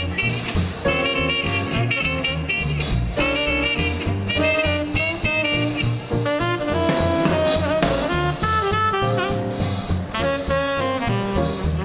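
Small-group swing band playing live: saxophone and trumpet lines over piano, double bass and drums, with the bass stepping on the beat.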